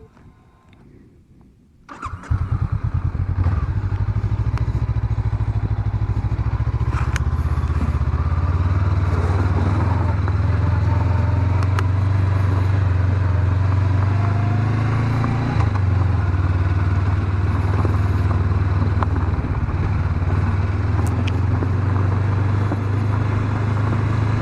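Honda CB500X's parallel-twin motorcycle engine starting up about two seconds in, then running steadily at an even, low pitch.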